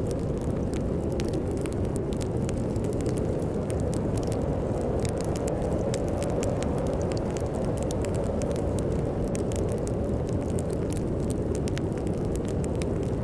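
Fireplace wood fire crackling, with irregular sharp pops scattered throughout, over a steady low rush of storm wind.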